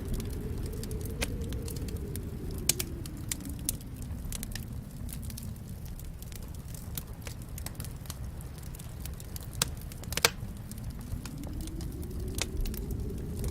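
Wood fire crackling, with scattered sharp pops over a low rush of flames that swells and fades. Two pops stand out, one near the start and one about ten seconds in.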